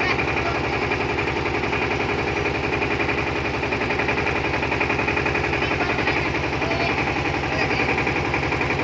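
An engine idling steadily, with a fast, even beat.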